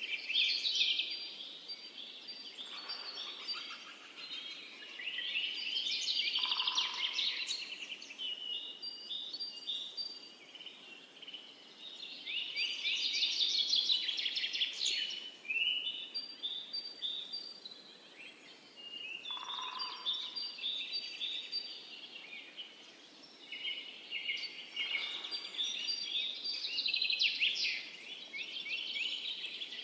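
Several songbirds singing and chirping in overlapping high trills that swell and fade every several seconds. A short, lower whistle sounds now and then, about three times.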